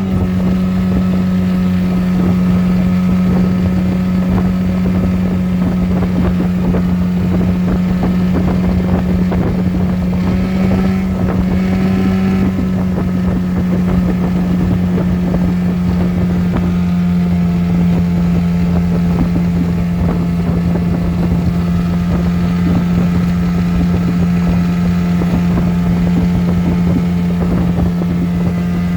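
A 7.5 hp Mercury outboard motor running steadily as the small aluminium boat moves under way, its engine note dropping slightly about halfway through. Wind buffets the microphone.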